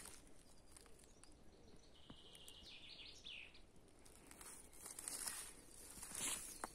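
A small bird's short call about two seconds in: a quick run of high notes followed by a few slurred notes, faint in quiet woodland. Footsteps on the forest floor start again near the end.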